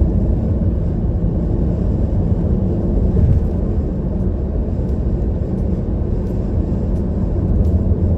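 Loud steady low rumble with no clear pitch, with a few faint clicks near the end.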